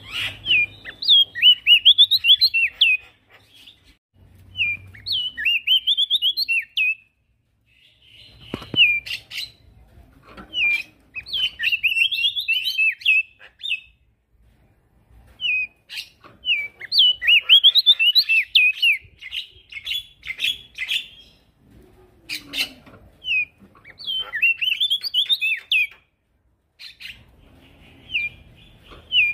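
Male prenjak daun singing vigorously: phrases of rapid, jumping high-pitched chirps, each lasting a few seconds and repeated after short pauses.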